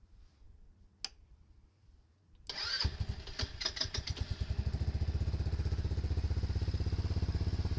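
A click about a second in, then the Dong Fang 200SST's engine is cranked briefly, catches almost at once, runs unevenly for a moment and settles into a steady idle.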